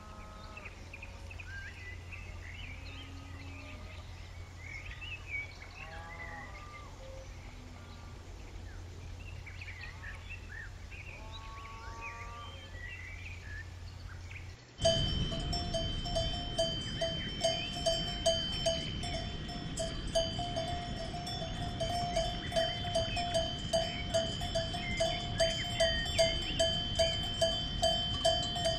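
Cowbells clanking in a steady rhythm, about two to three strikes a second, with a high ringing tone, after a sudden cut about halfway through. Before that, birds chirp over a low steady rumble.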